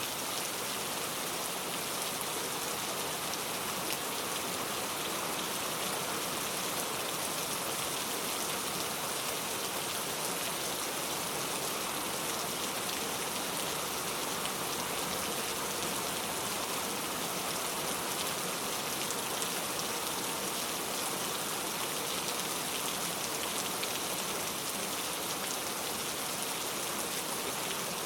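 Heavy rain falling steadily, a constant dense hiss of drops hitting surfaces.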